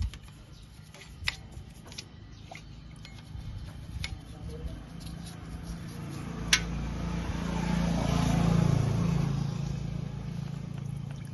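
Scattered light clicks and taps over a low hum, then a motor vehicle's engine noise that swells to a peak about eight to nine seconds in and fades again, as if passing by.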